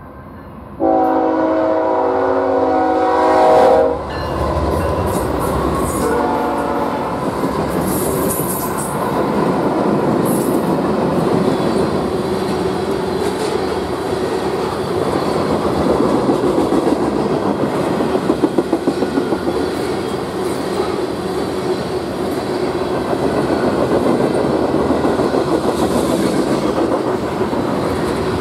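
Diesel locomotive air horn sounding a long chord blast of about three seconds, then a shorter blast. After that a freight train's cars roll past with a steady clickety-clack of wheels over the rail joints.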